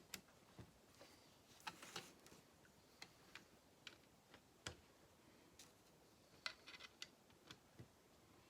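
Faint, irregular clicks and taps of small plastic Lego pieces being handled and pressed together, with quick clusters of clicks about two seconds in and again near seven seconds.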